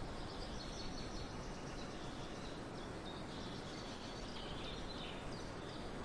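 Steady outdoor background noise with faint, scattered high bird chirps.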